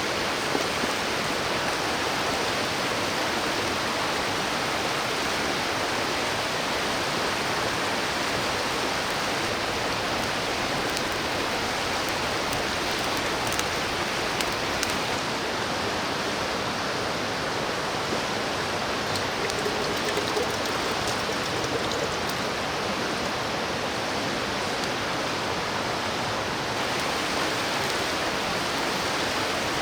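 Mountain stream rushing steadily over rocks, an even, unbroken water sound.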